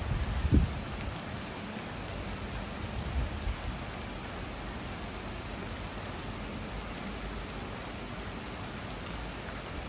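Steady rain falling on a street and tree foliage, an even hiss. Brief low thumps come about half a second in and again around three seconds in.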